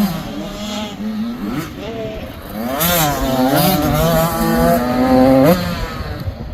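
85cc two-stroke dirt bike engine revving up and down as it rides, with a climb to a long high rev that drops off sharply about five and a half seconds in.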